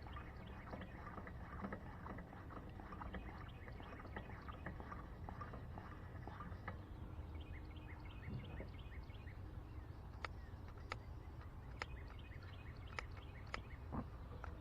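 Faint outdoor ambience full of many small, rapidly repeated chirps, with several sharp clicks in the second half.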